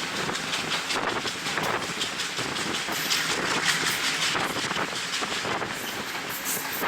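Passenger train running at speed, heard from a carriage with wind buffeting the microphone: a steady rushing noise.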